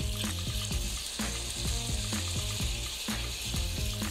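Sausages and friarielli sizzling steadily in an aluminium frying pan as they are turned with kitchen tongs, over background music with a regular beat.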